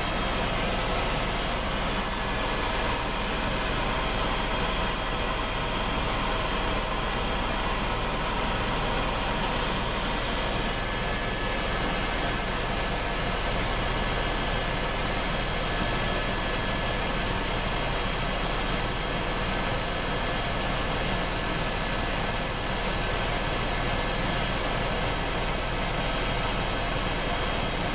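Helicopter running steadily: an even rush of engine and rotor noise with a faint high turbine whine.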